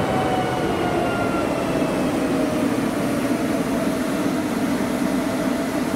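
A train running through the station with a steady rumble. In the first couple of seconds a motor whine slowly falls in pitch and fades.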